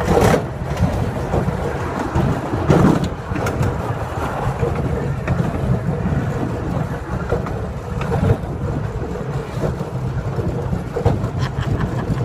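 Steady rumble and rattle of a miniature park train heard from aboard a moving passenger car, with a few sharper knocks, the loudest about three seconds in.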